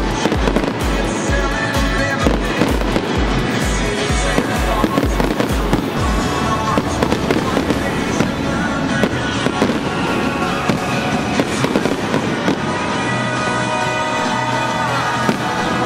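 Fireworks bursting and crackling over music. The music has a steady deep bass beat for the first six seconds, then turns to held notes.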